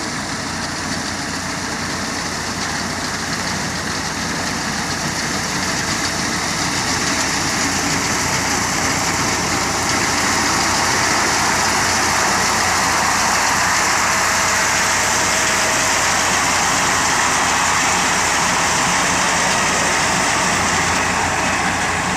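A 240 tractor's engine running steadily under load while cutting wheat, a dense mechanical din that grows louder over the first ten seconds or so and then holds.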